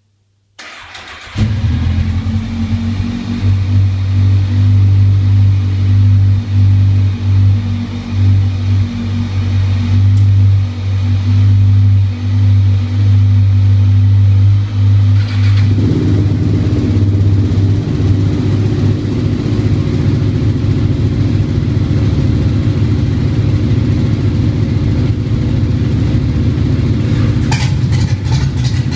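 A Kawasaki Z1000's inline-four motorcycle engine starts about half a second in and runs loud in an enclosed garage, its revs rising and falling. About halfway through, a second engine, a KTM 690 SMC single-cylinder, starts and runs alongside it, making the sound rougher. A brief patch of clicking comes near the end.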